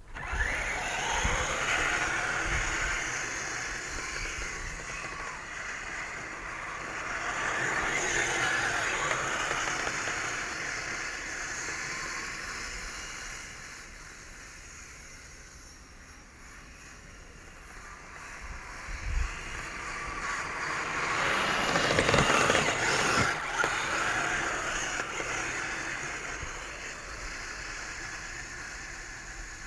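Radio-controlled Kyosho Blizzard SR snowcat running on its upgraded HobbyWing 2435 brushless motors, its motors and tracks growing louder and fading several times, loudest past the middle.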